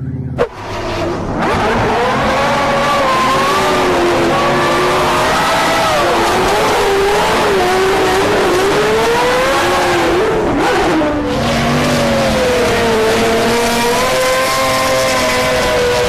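A car sliding in a long drift or burnout, its tyres squealing in wavering, wandering tones over the engine running under throttle. A sharp click comes about half a second in.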